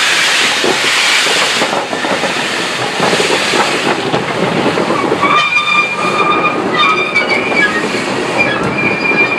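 A train running past, its wheels clattering over the rail joints. From about five seconds in, a high squealing tone starts and stops several times over the rumble.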